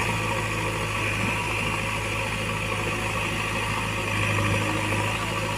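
Heavy vehicle's diesel engine running steadily at idle, growing a little louder about four seconds in.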